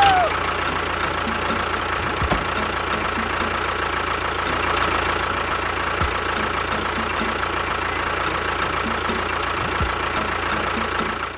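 A small motor running steadily with a constant whine, a few soft thumps along the way, then cutting off near the end.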